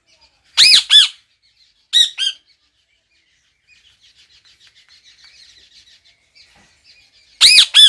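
Pet parrot calling: three pairs of loud, short, sharp squawks, with soft rapid chattering between the second and third pairs.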